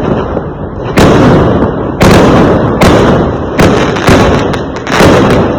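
Fireworks exploding: about six loud bangs in quick succession, roughly a second apart, each trailing off in a rumbling crackle.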